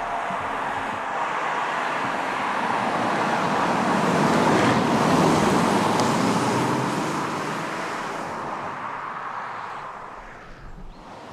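A car passing by: road and engine noise that builds to a peak about halfway through and then fades away.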